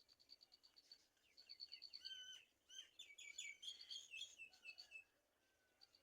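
Faint bird calls. First comes a rapid series of high, ticking chirps, then, from about two seconds in, several rising and falling whistled calls among busy chirping, which fade about a second before the end.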